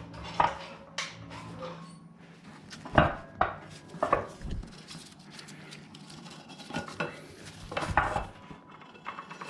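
Metal clanks and clinks of tools and motorcycle parts being handled, about a dozen separate knocks, the loudest about three seconds in.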